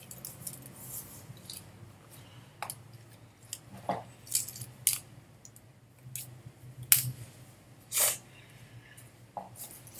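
A mask being handled and put on: a string of short rustles and light clicks at irregular intervals.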